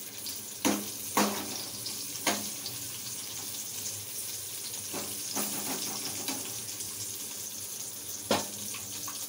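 Stuffed green chillies and cumin seeds sizzling steadily in oil in a metal frying pan over low heat. A metal spoon turning them knocks against the pan about six times, each a sharp clink with a brief ring.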